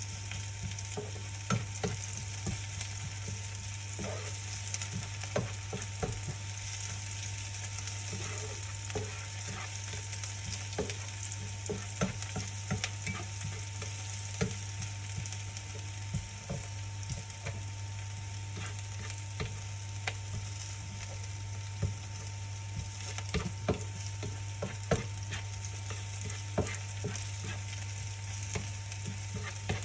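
Food sizzling in a frying pan while being stirred, with scattered taps and scrapes of the utensil against the pan, over a steady low hum.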